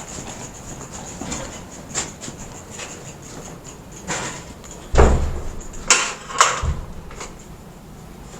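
Bicycles being put away in a garage: scattered knocks and rattles, a heavy thump about five seconds in and two sharp clicks just after it.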